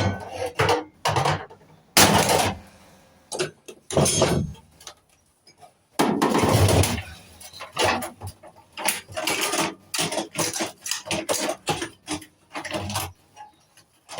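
Sheet-metal and parts of a microwave oven clanking, knocking and scraping as it is taken apart by hand, with a longer scrape or rattle about six seconds in.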